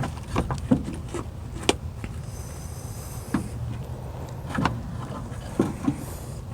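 Scattered sharp clicks and knocks of clips and parts being handled and fitted inside an open car door, about eight, over a low steady hum.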